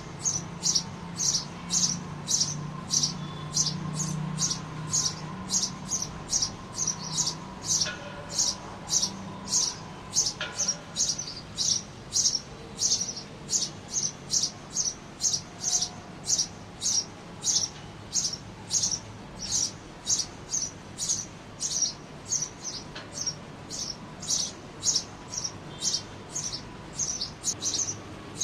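Pet bird chirping over and over in short high chirps, about two a second, with a low hum underneath for the first several seconds.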